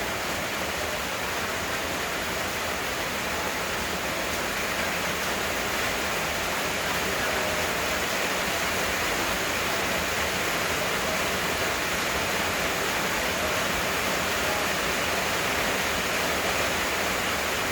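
Heavy rain pouring down steadily as a dense, even hiss with no let-up.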